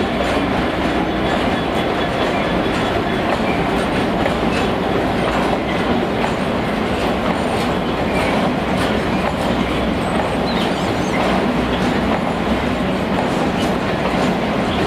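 Train passing close by: a steady rumble of wheels on the rails with a stream of small clicks and faint high squeals.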